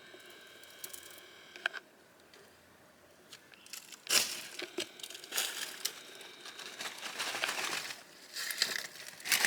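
Rustling and crinkling as material is pushed and handled while searching for a trapped young bird: quiet at first with a couple of small clicks, then irregular bursts of rustling from about four seconds in, getting louder near the end.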